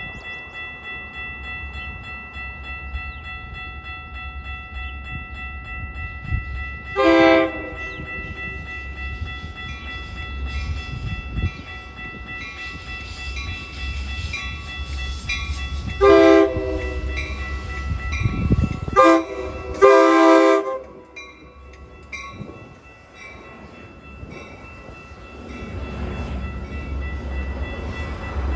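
Train horn sounding four blasts, the third short and the last about a second long, over the low steady rumble of a train.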